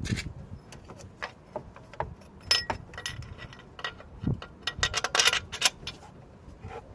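Hand tools and bolts clicking and clinking on metal, scattered sharp clicks, some briefly ringing, with a quick run of clicks about five seconds in, while a replacement starter motor is being bolted in.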